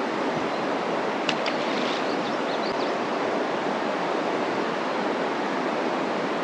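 Fast, shallow river current rushing steadily, a dense even rush of water. A brief click a little over a second in.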